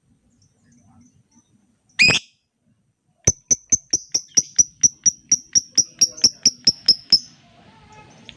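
Lovebird giving one shrill screech, then a fast run of sharp ticking chirps, about five a second, for about four seconds. This is the 'ngetik' ticking call used as a lure to set other lovebirds calling.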